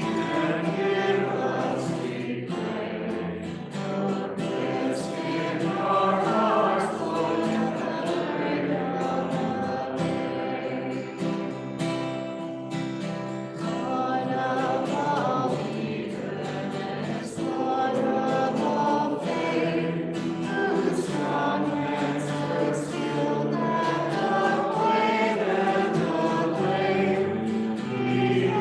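Congregation singing a hymn, with sustained low notes held beneath the melody.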